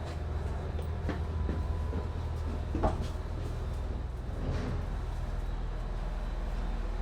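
Steady low rumble of a train in motion, with a few sharp knocks and rattles from the car, the loudest about three seconds in.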